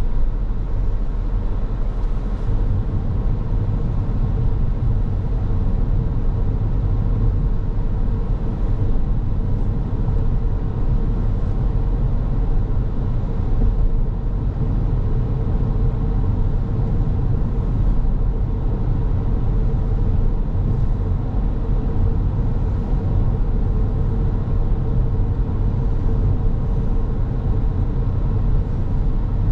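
A car driving along the road: a steady deep rumble of tyres and running gear with a steady hum on top, unbroken throughout.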